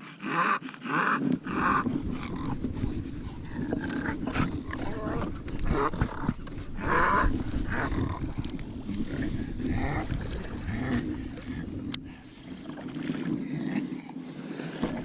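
A bulldog's throaty breathing and grunting noises, coming in a string of short bursts, with a low rumble underneath.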